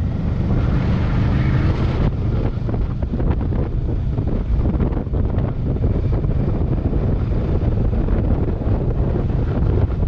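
Wind buffeting the microphone while riding a Kawasaki Versys 650 motorcycle, a steady low rushing with the bike's running drowned beneath it.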